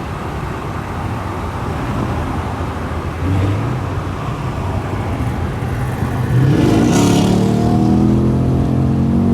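Car engine running, then accelerating hard about six and a half seconds in, its pitch rising steadily.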